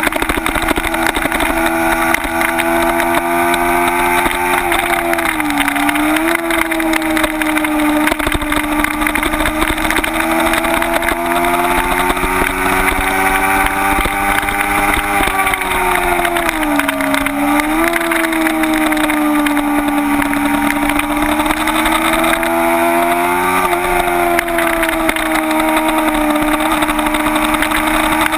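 Kawasaki Ninja 250's parallel-twin engine held at high revs at speed on a racetrack, over steady wind noise. Its pitch dips and climbs back twice, about five and a half and seventeen seconds in, with a smaller dip near twenty-four seconds.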